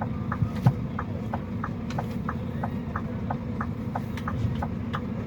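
A car's indicator or hazard-light relay ticking steadily, about four ticks a second, over the low steady rumble of an idling engine.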